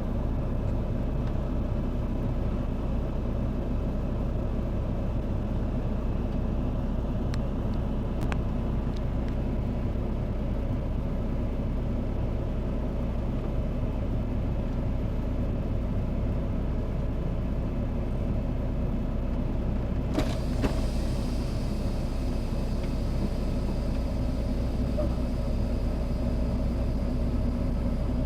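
A vehicle engine running steadily with a low hum. A few faint clicks come about seven and eight seconds in, and about twenty seconds in a wider hiss joins the hum.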